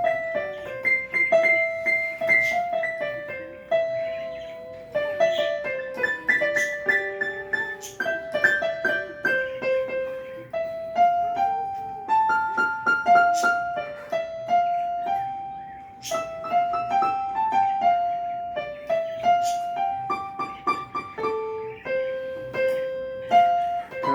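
A keyboard playing a slow melody one note at a time, with a few chords mixed in.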